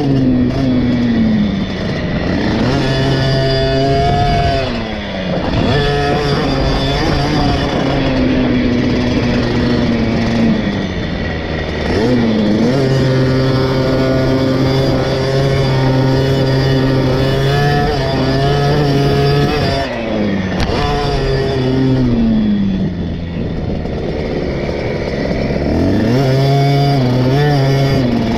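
KTM SX 50's small two-stroke single-cylinder engine ridden hard on a motocross track: held at high revs for stretches, then dropping in pitch as the throttle is shut and climbing again as it is opened, several times over. Wind noise rushes over the mounted microphone underneath.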